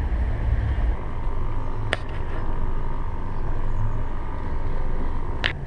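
Low, steady rumble of the catamaran's diesel engines idling, with two sharp clicks or knocks, one about two seconds in and one near the end.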